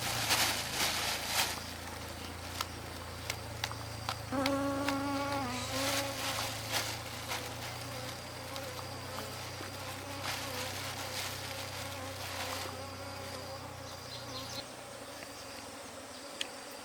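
Bees from a wild hive buzzing in a steady low hum, with rustling and light knocks from handling around the hive. A short pitched sound comes about four and a half seconds in, and the hum stops suddenly near the end.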